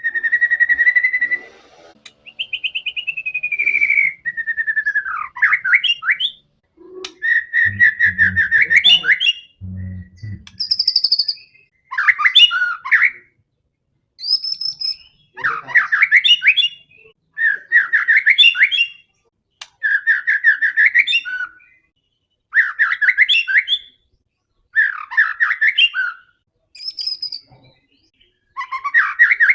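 White-rumped shama (murai batu) singing loudly in repeated phrases, about one every two seconds, each a quick run of notes, many sweeping sharply upward, with short high whistled notes between phrases. A brief low hum sounds twice around eight to ten seconds in.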